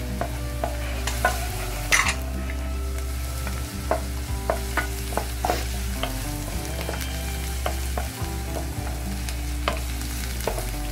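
Chopped onion, garlic and ginger sizzling in oil in a nonstick pan, stirred with a spatula that scrapes and taps against the pan, with a sharper knock about two seconds in. A steady low hum runs underneath.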